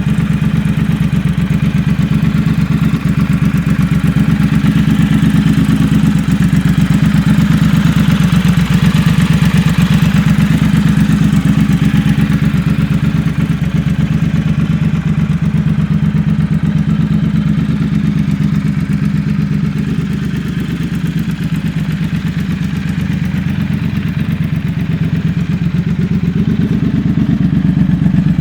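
Triumph Thruxton 1200 RS's 1200 cc parallel-twin engine idling steadily.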